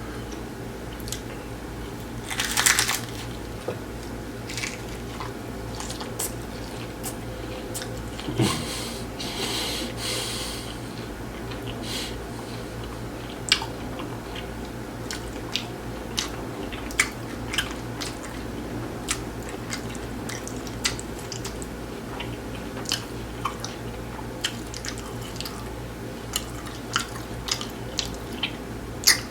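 Close-miked chewing of hard-shell tacos: crisp crunching of the fried taco shells with many sharp cracks scattered throughout, and louder crunching bursts about three seconds in and again around ten seconds in.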